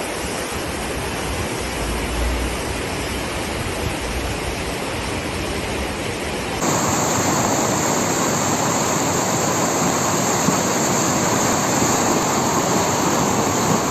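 Steady rushing of floodwater. About six and a half seconds in it cuts abruptly to a louder, hissier rush.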